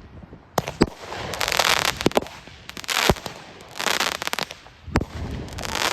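Fireworks going off: several sharp bangs mixed with repeated bursts of dense crackling, one after another.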